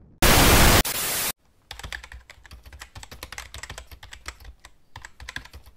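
A loud burst of static-like noise lasting about a second, then rapid, irregular clicking of typing on a computer keyboard.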